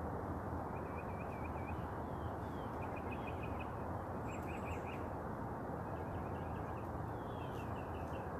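Small birds chirping in short, rapid runs of notes, repeated every second or two, over a steady background rush of noise.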